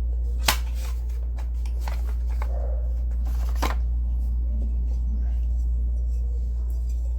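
Hand tools being handled and rummaged out of a tool bag: a few sharp clicks and knocks, the strongest about half a second in and another past the middle, with rustling between them, over a steady low hum.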